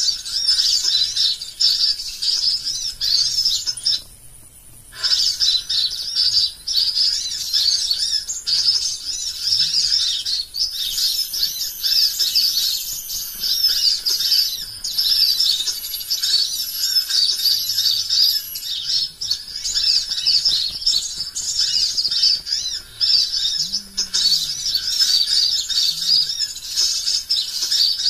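Small songbirds chirping and twittering in a dense, continuous high-pitched chorus, with a short break about four seconds in.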